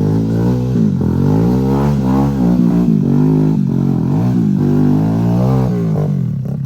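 Off-road motorcycle engine revved up and down in repeated short bursts of throttle, about five or six rises and falls, as it works its way over rocky trail.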